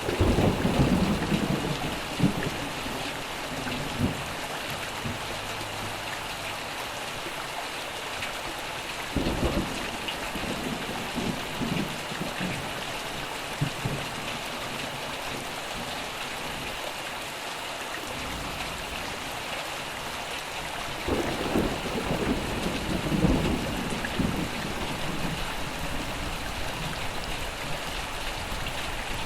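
Steady rain with three low rolls of thunder: one at the start, one about nine seconds in, and one about twenty-one seconds in.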